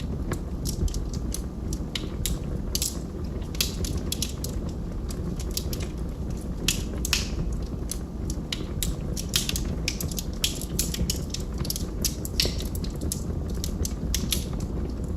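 Log fire crackling: irregular sharp pops and snaps, several a second, over a steady low rush from the burning wood.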